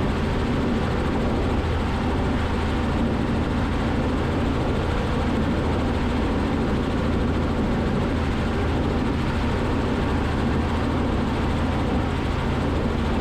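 Robinson R44 helicopter's engine and rotor noise in steady cruise flight, a constant low drone picked up through the cockpit intercom.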